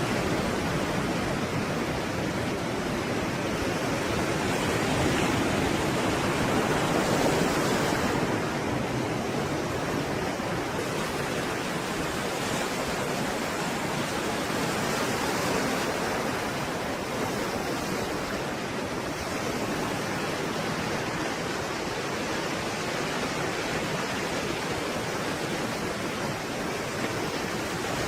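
Stormy sea surf: a continuous wash of breaking waves, swelling slightly about a quarter of the way through.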